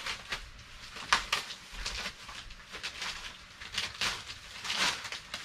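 Plastic packaging of a bag of spinach crinkling and crackling in irregular bursts as it is handled.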